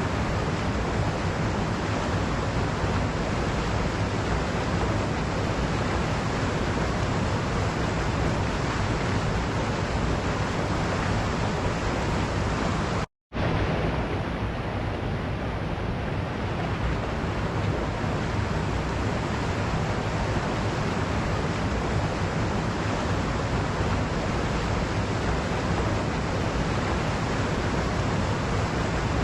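Waterfall rushing steadily, an even wash of falling water. It cuts out to silence for a fraction of a second near the middle, then resumes unchanged.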